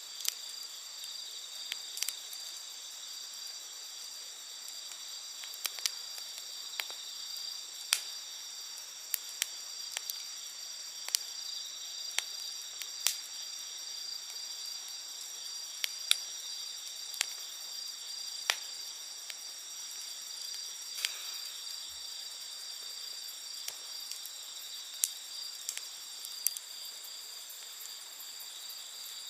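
Wood campfire crackling, with irregular sharp pops and snaps, over a steady high-pitched chorus of night insects trilling.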